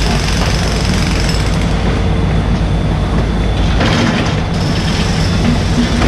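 Mini excavator's diesel engine running steadily while the machine works, with a brief harsher noise about four seconds in.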